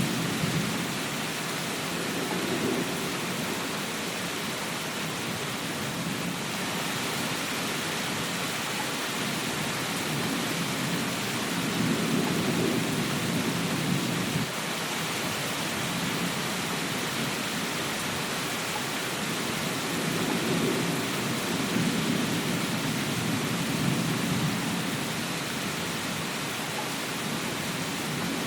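Steady rain with low rolling thunder that swells and fades three times.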